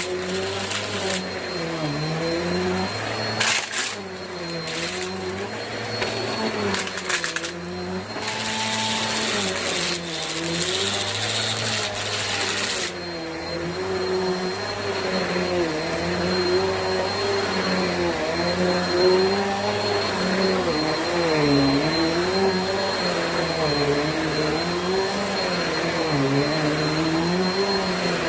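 Bissell vacuum cleaner running steadily, its motor pitch rising and falling every second or two. In the first half there is crackling and clicking as small rubber bands are sucked up.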